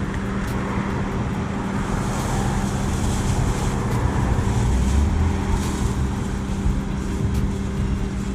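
Steady motor-vehicle noise: a low engine hum with road or traffic rumble that swells slightly midway.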